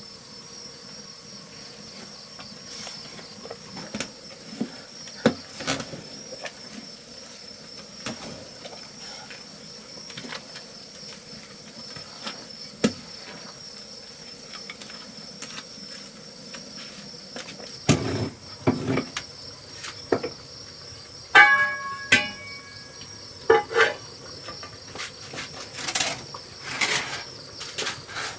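Steady high-pitched chorus of insects such as crickets, with scattered knocks and clatters, louder and more frequent in the second half.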